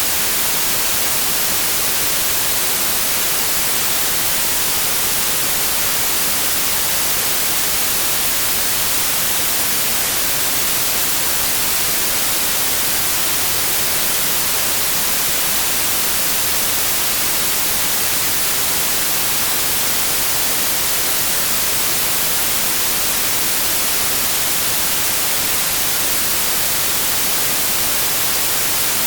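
Continuous white noise: a steady, even hiss spread across the whole frequency range, unchanging throughout.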